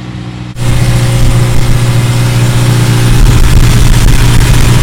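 Toyota Celica's engine idling steadily close by. It jumps sharply louder about half a second in and grows a little louder again around three seconds in.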